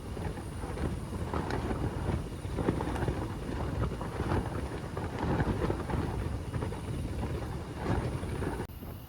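Strong wind gusting over the microphone, a dense low buffeting noise that rises and falls in gusts.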